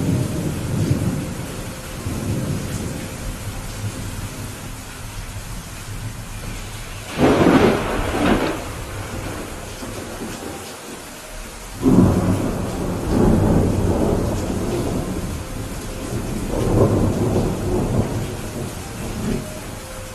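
Rain falling steadily through a thunderstorm, with rolling thunder: a sharp, loud thunderclap about seven seconds in, then long low rumbles from about twelve seconds on.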